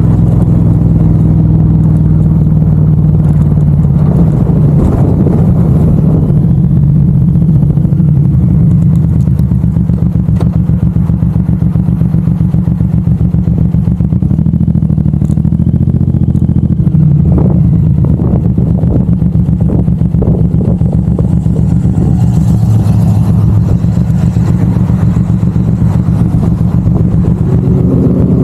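Suzuki M109R's big V-twin engine running steadily while riding, a loud low drone with a slight change in pitch about two-thirds of the way through.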